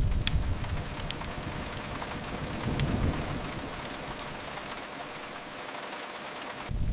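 Steady rain on a window with a few sharp fireplace crackles. A low rumble fades at the start, swells again about three seconds in, and comes back near the end.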